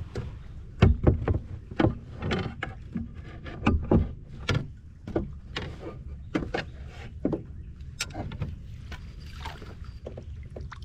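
Sounds of a fishing kayak on the water: irregular knocks against the hull and short splashes over a steady low rumble, busiest in the first half.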